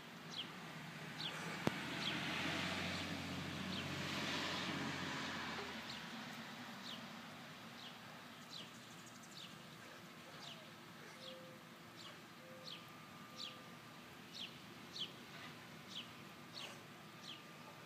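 A small songbird chirping repeatedly outside, short high downward chirps about once a second. A broad rushing noise swells and fades over the first few seconds.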